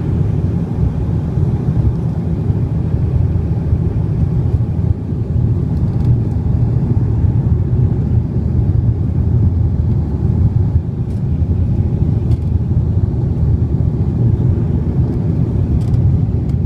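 Steady low rumble of jet engines and airflow heard inside a passenger aircraft's cabin on approach for landing, with a few faint clicks.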